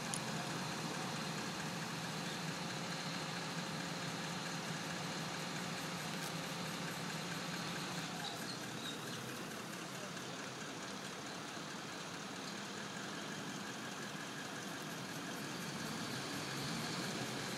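Crane truck's engine running steadily at a low idle while the crane works.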